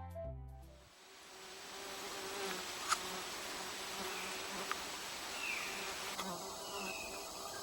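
Flying insects buzzing steadily in the forest air, a wavering hum. A few short high chirps come in the second half, and there are two sharp clicks, about three seconds in and again near five seconds.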